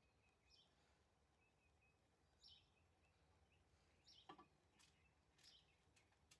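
Near silence, with a few faint, short bird chirps spaced a second or two apart and a soft click about four seconds in.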